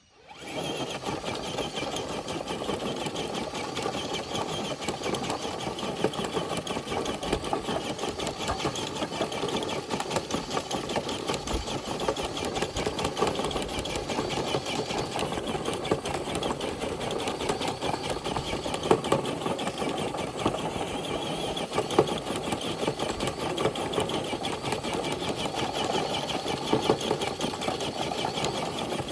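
Radio-controlled truck's electric motor and geared drivetrain running under load as it drags a weighted dead sled: a steady whir with fast, fine ticking.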